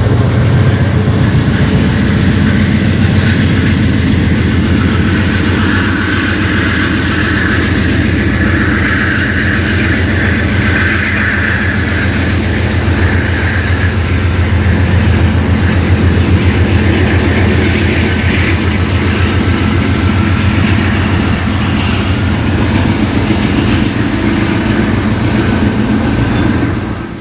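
Amtrak Cascades passenger train passing at track speed: a steady diesel locomotive hum under a continuous clatter of wheels over the rails. The sound cuts off suddenly at the end.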